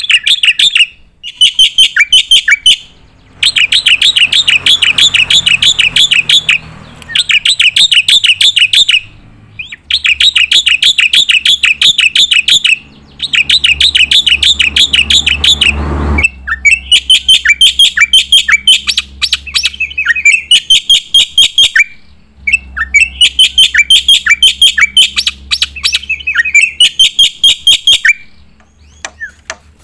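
Black-winged myna (jalak putih) singing loudly in a string of phrases of fast, sharp repeated notes, each phrase a few seconds long, with short pauses between.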